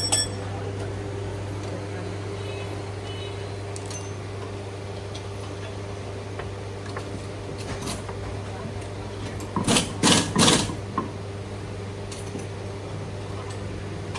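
A steady mechanical hum, with a short click at the start and three loud knocks in quick succession about ten seconds in.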